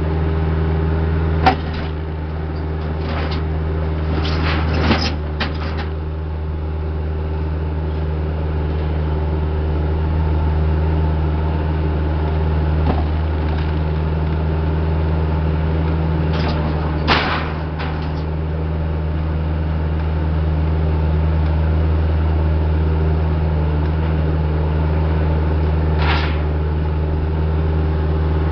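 Heavy equipment diesel engine running steadily, with a few sharp knocks and clanks: a cluster of them about four to five seconds in, another around seventeen seconds, and a single one near the end.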